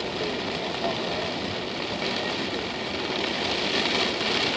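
Steady hiss of heavy rain on a moving car mixed with its road and engine noise, heard from inside the cabin.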